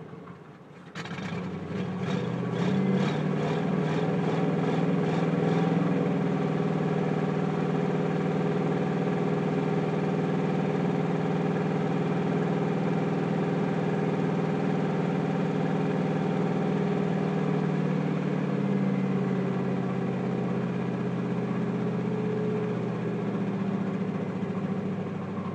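Chevy 4.8 L Vortec V8 running during a Seafoam intake-cleaning treatment. It picks up sharply about a second in, climbs to a raised speed and holds there steadily, then eases back near the end.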